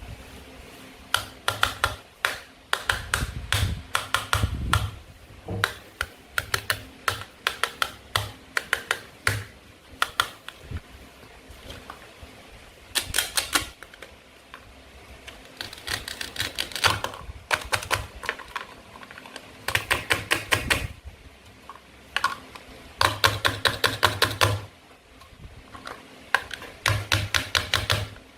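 Bursts of rapid, sharp clicks and clacks from hard toy pieces being handled, coming in runs of a second or two with short pauses between.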